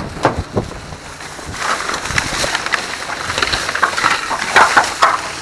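Plastic trash bag rustling and crinkling as it is handled and rummaged through, with a few knocks in the first second.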